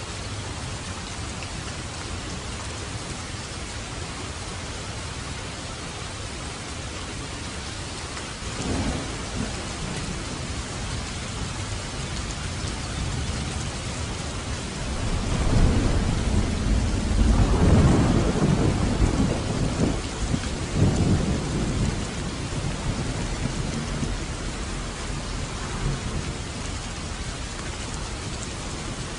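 Steady heavy rain with thunder: a short low rumble about nine seconds in, then a longer, louder rolling rumble midway that fades away.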